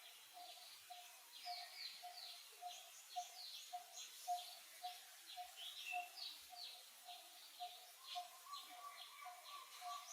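Faint birds chirping, with a repeated short low note about three or four times a second throughout and a second, higher trilling note joining about eight seconds in.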